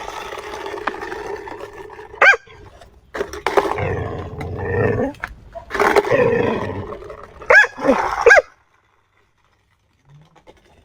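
A dog growling and grumbling in long rumbling stretches, broken by a few short high-pitched cries. It is complaining, not threatening: the dog grumbles at the rough road under its skateboard. The sound cuts off suddenly near the end.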